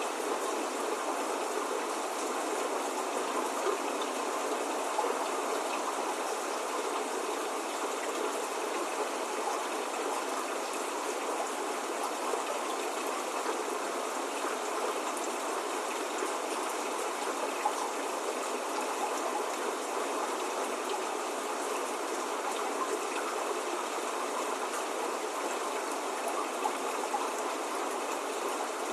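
Steady spring rain falling, an even hiss with no thunder or birdsong, and now and then a slightly louder drop.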